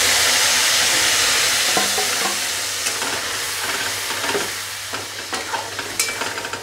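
A wet paste of onion, ginger, garlic, green chilli and tomato sizzles as it hits hot oil tempered with whole cumin and whole spices in a kadai. The sizzle is loudest at first and gradually eases off, while a metal spatula stirs and clicks against the pan.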